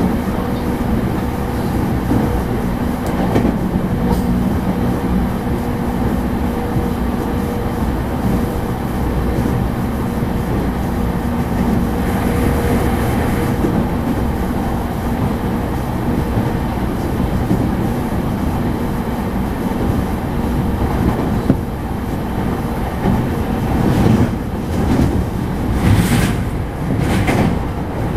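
Inside a JR East E231-series commuter electric train (a motor car) running at speed: a continuous rumble of wheels on rail with a steady hum that fades out about halfway through, and a few sharp clacks from the wheels crossing rail joints near the end.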